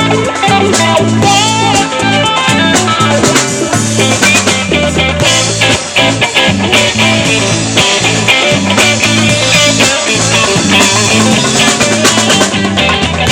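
Live band playing an instrumental passage: electric guitar lines over bass and drum kit, with no vocals.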